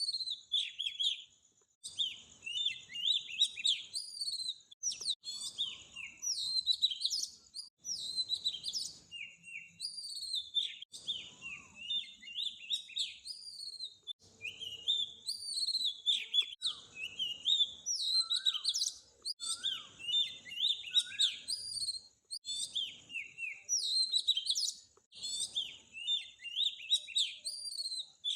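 Songbirds chirping and singing without a break, many short, quick, high phrases following one another and overlapping.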